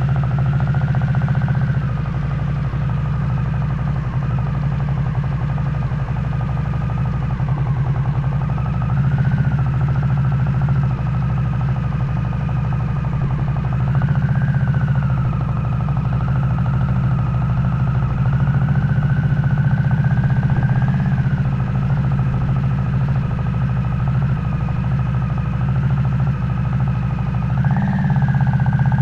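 Harley-Davidson Nightster's V-twin engine running through a Jekill & Hyde adjustable exhaust set to its loud mode. The engine speed drifts gently up and down and climbs near the end.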